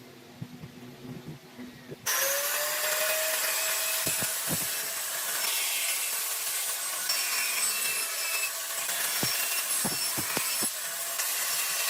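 A power tool starts up about two seconds in, its motor whine rising briefly, and then runs steadily on wood with a loud, rough hiss.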